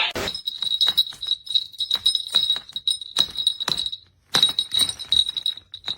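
A small bell jingling in quick, continuous shakes, high and bright, with a brief break about four seconds in.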